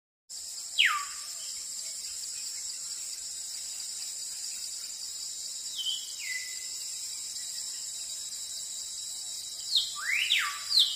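A steady, high insect chorus, like crickets, with bird calls over it: each call is a whistle sliding down in pitch. There is one about a second in, another about six seconds in, and a few close together near the end.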